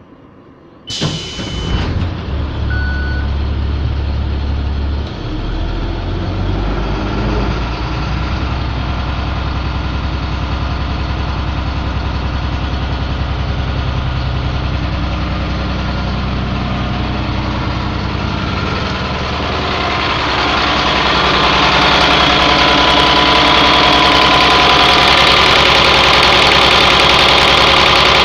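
Freightliner school bus's Caterpillar diesel engine starting cold about a second in and then running steadily at idle, growing louder from around two-thirds of the way through. A couple of short beeps sound in the first few seconds after it starts.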